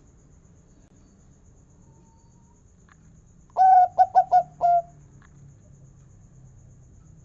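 Zebra dove (perkutut) singing one phrase about three and a half seconds in: a first note, three quick short notes, then a longer closing 'kung' note.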